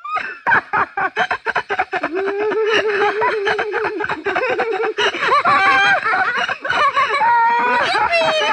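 Laughter in quick bursts that gives way, after about two seconds, to longer drawn-out voiced tones.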